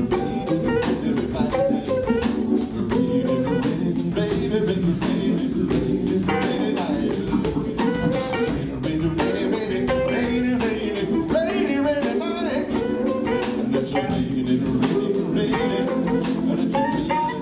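Hammond B3 organ trio playing a slow soul-blues instrumental passage: held organ chords, a melodic guitar line above them and a steady drum beat.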